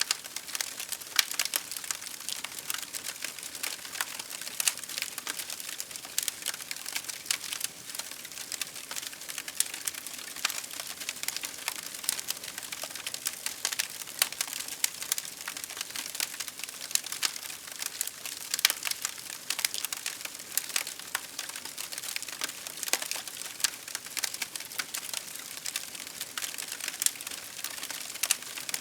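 Wood fire crackling: a steady stream of small sharp pops and snaps over a soft hiss, with an occasional louder pop.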